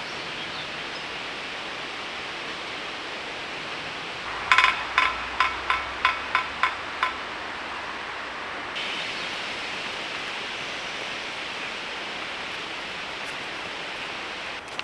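Steady outdoor hiss, like wind in trees or distant running water, broken about four and a half seconds in by a quick run of about nine sharp, ringing notes lasting two to three seconds.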